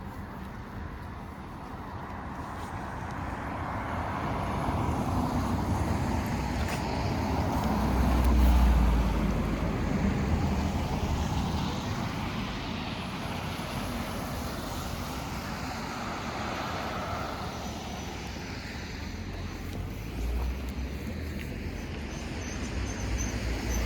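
Road traffic noise, with a vehicle passing close about eight to nine seconds in, the loudest point, bringing a deep rumble that then eases off.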